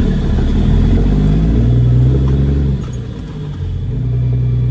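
Cat C13 diesel in a Kenworth W900B dump truck pulling away under load. The revs climb for nearly three seconds, fall off briefly at a gear change, then build again in the next gear.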